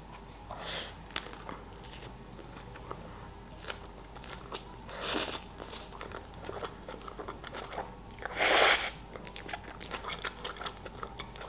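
A person biting into and chewing a mouthful of dry-aged beef burger with chimichurri sauce on a soft bun: soft, wet chewing with many small clicks and smacks, and a louder rush of noise about eight seconds in.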